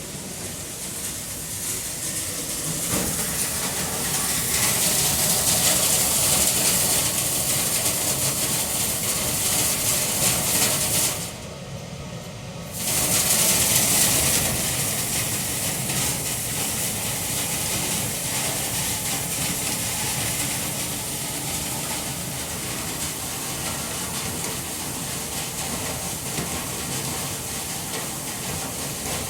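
Steady loud rush of air from duct-cleaning equipment. It cuts out for about a second and a half about eleven seconds in, then starts again.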